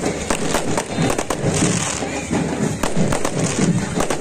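Aerial fireworks going off: a string of sharp bangs and crackles from shells bursting overhead, with music and voices underneath.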